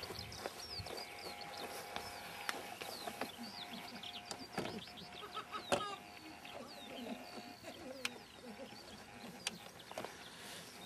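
Birds chirping and singing continuously in quick short notes, with a few sharp clicks and knocks, the loudest nearly six seconds in.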